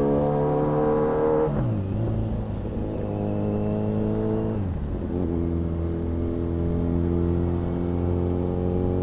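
Motorcycle engine pulling under acceleration while riding, its pitch climbing, with two upshifts where the pitch drops sharply, about one and a half seconds in and again around four and a half seconds in.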